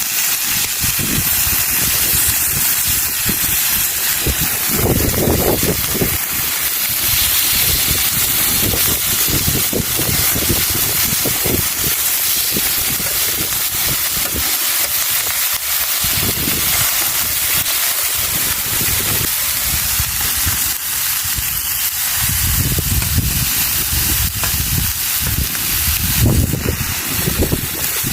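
Beef fillet sizzling on a grill over a wood fire, a steady hiss with low rumbles that come and go.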